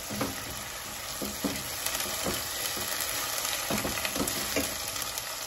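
Sliced onions and freshly added ginger-garlic paste sizzling in hot olive oil in a nonstick pan, stirred with a spatula, with several short scrapes and knocks of the spatula against the pan over the steady hiss.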